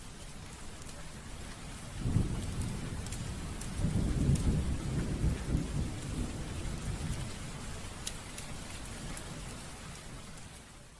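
Steady rain with scattered crackles, and a roll of thunder that swells about two seconds in and slowly dies away.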